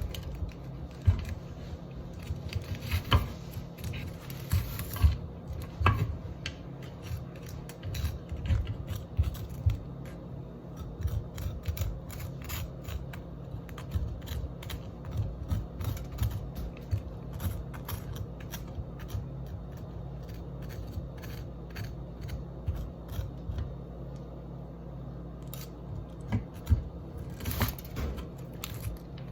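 Kitchen utensils clicking and scraping in quick, irregular handling sounds during food preparation, over a steady low hum.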